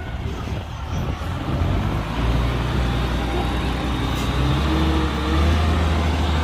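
Heavy earthmoving machine's diesel engine running steadily, growing louder about two seconds in and again about five seconds in as it takes more throttle or load.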